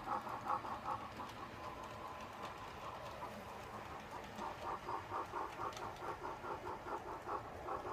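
00 gauge Black 5 model steam locomotive's DCC sound decoder playing exhaust chuffs through its small speaker: a short burst, a lull, then a steady beat of about five chuffs a second from about four seconds in.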